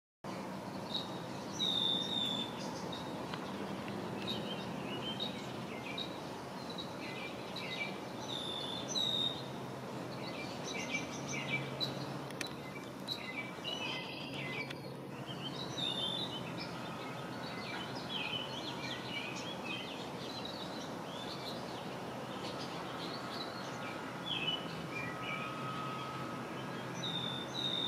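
Several songbirds chirping and calling in short repeated notes from the marsh, over a steady low background rumble.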